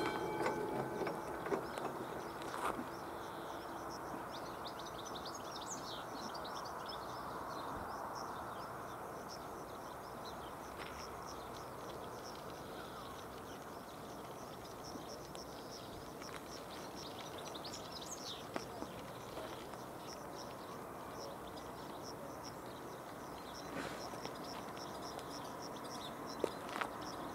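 Birds chirping and tweeting over a steady low outdoor background noise, with a few faint clicks.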